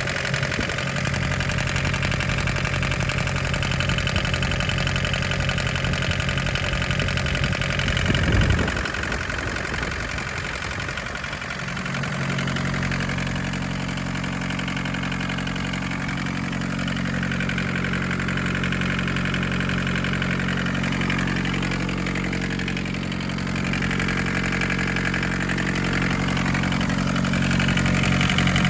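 1981 Isuzu Pup's diesel engine idling steadily while warm. About eight seconds in there is a short loud thump and the hum drops for a few seconds before the steady idle comes back.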